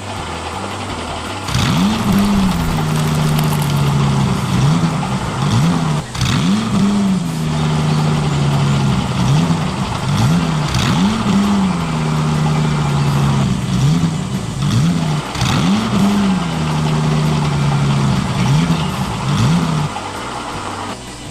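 Engine sound of a remote-control construction vehicle, revving up and falling back over and over, about every second and a half, with steady running in between.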